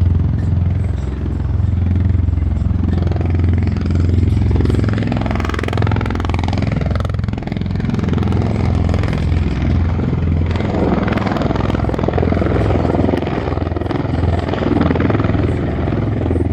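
Aircraft flying past, a loud continuous rumble whose tone sweeps up and down around the middle, then grows rougher near the end.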